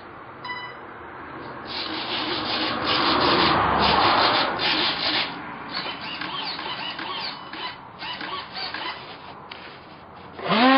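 Wind buffeting and rubbing on the microphone, uneven and swelling about two seconds in, then easing. A short electronic beep sounds about half a second in.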